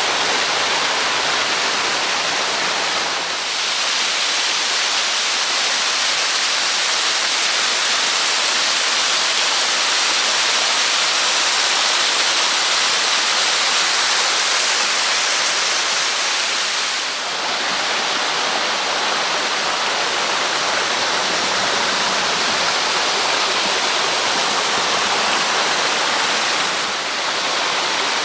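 Waterfall with a 6 m drop, a steady rush of falling water that dips briefly three times: about three seconds in, midway, and near the end.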